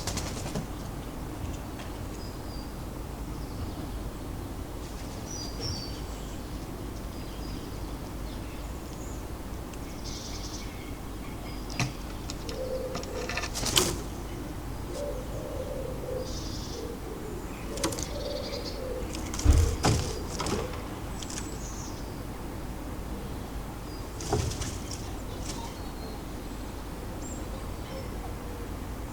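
Small garden birds chirping faintly and intermittently over a steady low background hum. A handful of sharp knocks and flutters come from the bird feeder, the loudest about two-thirds of the way through, and a low patchy call sounds in the middle stretch.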